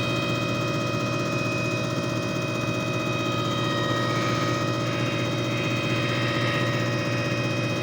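JFJ Easy Pro disc repair machine running: a steady electric-motor hum with several constant whine tones, and a faint rushing hiss that swells in and out from about halfway through.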